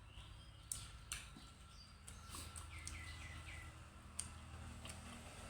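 A small bird chirping faintly, four short notes in quick succession, each falling in pitch, over a steady low hum, with a few sharp clicks before and after.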